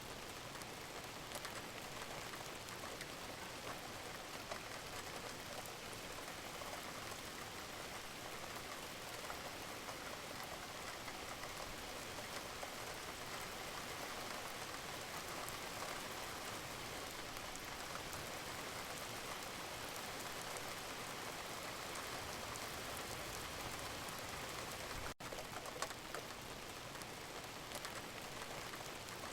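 Steady rain falling, an even hiss scattered with the ticks of single drops. The sound drops out for a split second about 25 seconds in.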